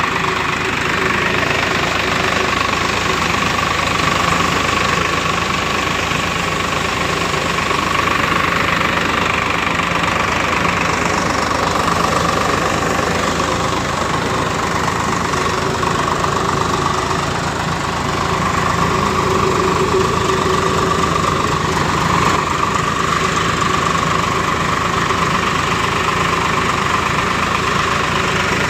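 Tractor engine running steadily while it drives a chaff cutter, with a steady whine over the engine note and a slight dip in loudness about two-thirds of the way through.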